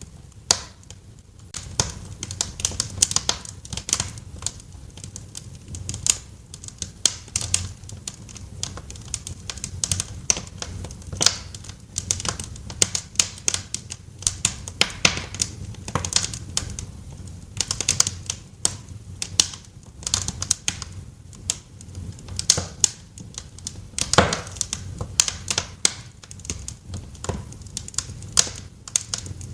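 Wood fire crackling in a fireplace: irregular sharp pops and snaps, several a second and some louder than others, over a steady low rumble of the burning fire.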